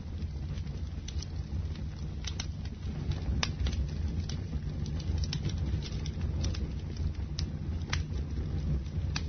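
Bonfire burning: a steady low rumble of flames with irregular sharp crackles and pops from the burning wood, roughly two a second.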